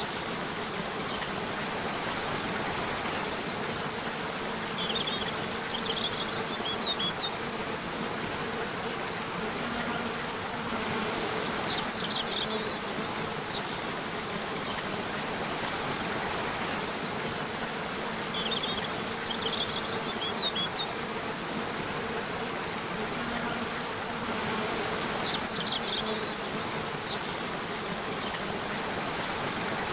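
Nature soundscape: a steady insect-like drone over an even rushing hiss, with clusters of short high chirps recurring every several seconds.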